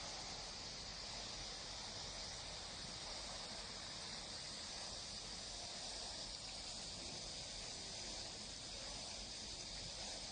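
Steady outdoor nature ambience: an even, high insect chorus over a soft hiss, with no distinct calls or events.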